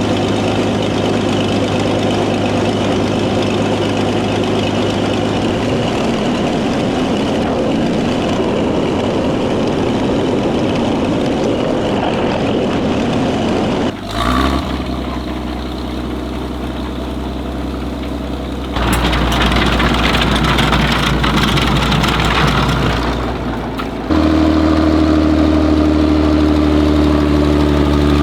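Tank engine running at a steady idle or low speed, heard across several shots that cut abruptly about halfway through, again a few seconds later, and near the end.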